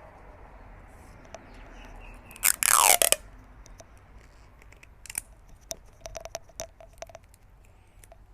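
Sticky tape pulled off the roll in one loud rip of about half a second, falling in pitch, about two and a half seconds in; afterwards light clicks and crinkles as the tape and leaf are pressed onto the paper.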